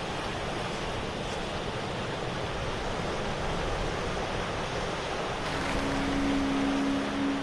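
Sea waves washing on the shore with wind buffeting the microphone, a steady rushing noise. A steady low hum comes in about five and a half seconds in.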